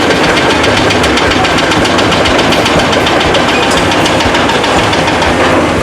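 Heavy diesel engine of a construction machine running loud and steady, with a rapid, even knocking beat; it eases slightly near the end.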